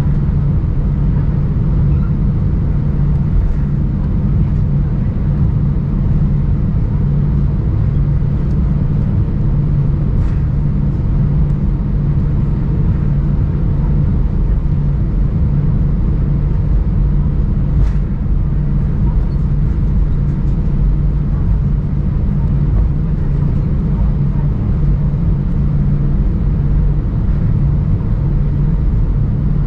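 Steady low vehicle rumble with a constant low hum, and a couple of faint clicks.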